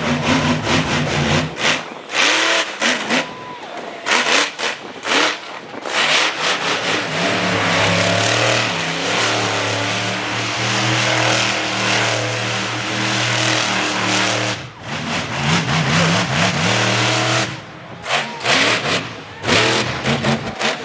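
Monster truck engine revving hard: choppy throttle blips at first, then a sustained full-throttle run of several seconds from about six seconds in, and choppy blipping again near the end. Loud throughout.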